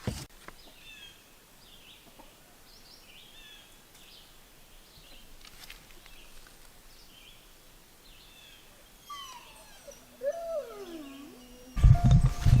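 Faint birds chirping off and on, with a louder sliding bird call about ten seconds in. Loud music starts suddenly just before the end.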